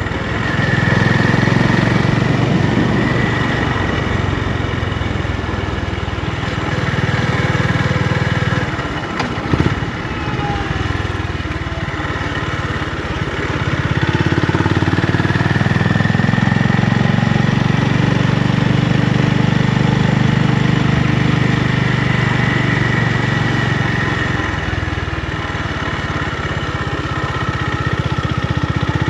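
Honda GB350's air-cooled single-cylinder engine running, its note swelling and easing over several seconds at a time. There is one sharp click about nine and a half seconds in.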